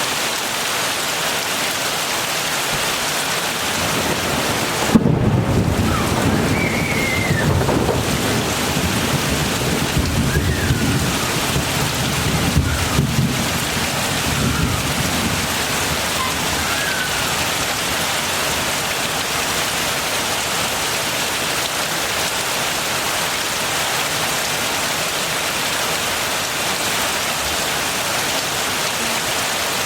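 Steady heavy rain hissing down, with a clap of thunder about five seconds in that rolls on as a low rumble, swelling again twice, and dies away after about ten seconds.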